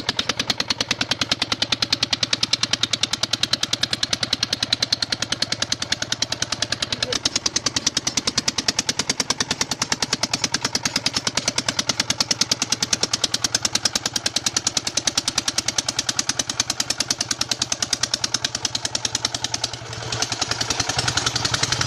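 Ford 3600 tractor's three-cylinder diesel engine running steadily with a rapid, even knocking beat. About two seconds before the end the beat dips briefly, then the engine note picks up.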